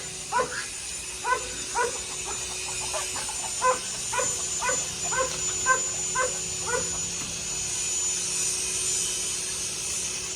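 Dogs yipping and barking at feeding time, a quick run of short, high calls at about two a second that stops about seven seconds in. A steady background hum runs underneath.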